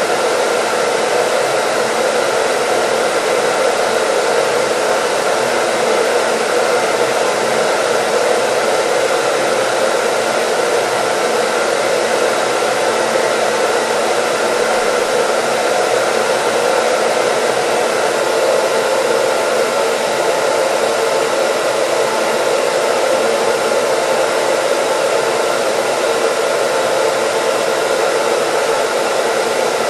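Hair dryer running steadily: an even rushing noise that never changes, with a few faint steady tones in it.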